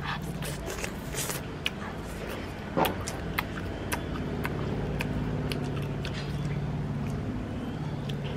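Close-up mouth sounds of eating grilled chicken wings: scattered wet clicks and smacks of biting and chewing, one sharper click about three seconds in. A steady low motor-like hum runs underneath.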